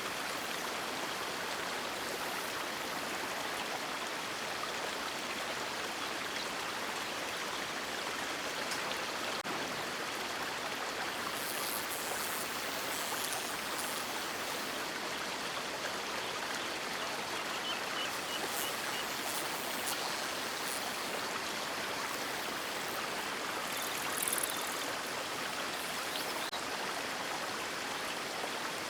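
River water rushing steadily over rocks, an even, continuous flowing sound, with one brief louder moment a little past two-thirds of the way in.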